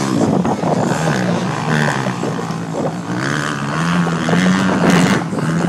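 Several motocross bikes' engines revving up and dropping back over and over as they race around the track, the pitch climbing and falling every second or so.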